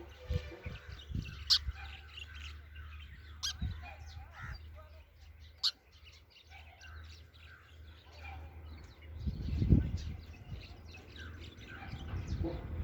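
Sparrow chirping in many short repeated notes, with a few sharp clicks and a steady low hum underneath. A dull thump about ten seconds in is the loudest sound.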